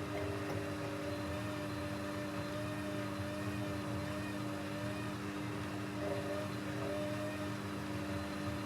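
Techwood WB 91042I washing machine running steadily, its motor giving a constant hum with a slightly wavering whine above it.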